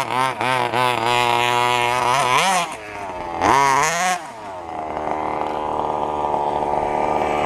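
Small two-stroke petrol engine of a large-scale FG radio-controlled stadium truck, revving in quick throttle blips, then holding steady, rising and falling sharply about three and a half seconds in, and then running at a steady higher pitch.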